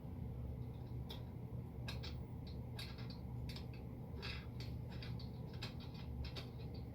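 Small irregular clicks and taps of parts and hand tools being handled while a laser engraver's frame is assembled, over a steady low hum.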